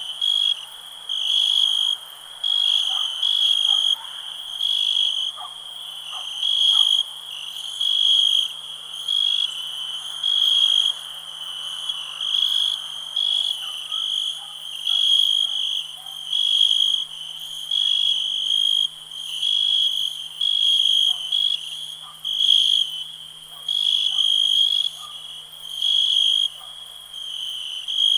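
Crickets chirping: a high-pitched trill repeated in regular bursts about once a second, with faint short calls lower in pitch scattered underneath.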